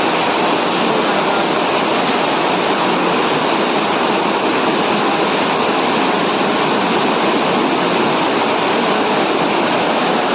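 Large volume of floodwater rushing steadily through a washed-out road, a loud, even noise of fast-flowing water.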